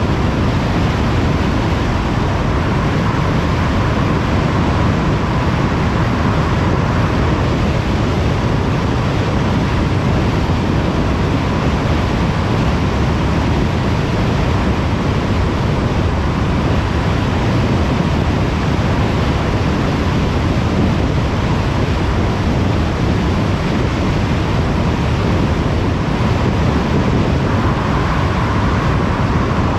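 Steady road noise of a car travelling on a motorway: tyre and wind noise as an even rush, with a faint high hum that grows slightly stronger near the end.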